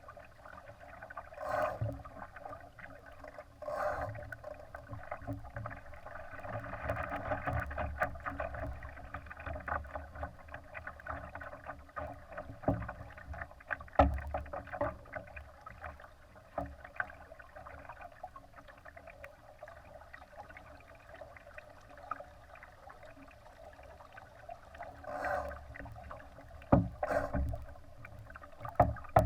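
Water rushing and splashing against a Laser sailing dinghy's hull in uneven surges, with a few sharp knocks, the loudest about halfway through and another near the end.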